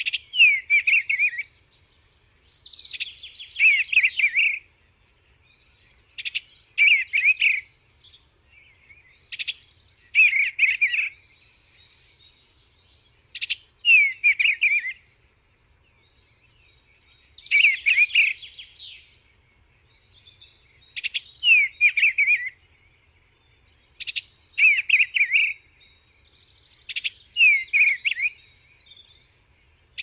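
A bird singing the same short phrase over and over, a quick run of falling chirps, repeated about every three to four seconds.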